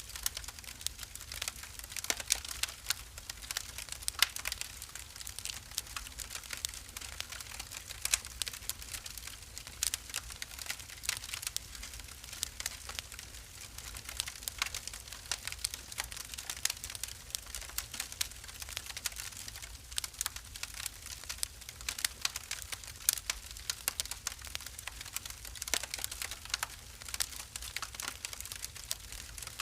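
Wood fire burning in a fireplace, crackling with many quick, irregular pops and snaps over a low, steady rumble.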